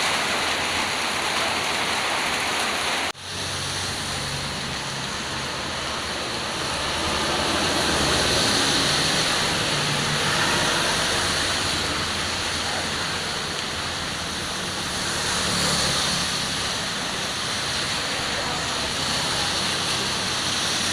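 Heavy rain pouring down in a steady, dense hiss. About three seconds in the sound breaks off for an instant, and after it a low rumble runs under the rain.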